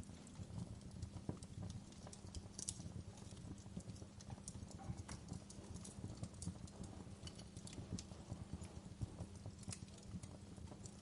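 Wood fire crackling in a fireplace: irregular small pops and snaps over a low steady rumble of the flames.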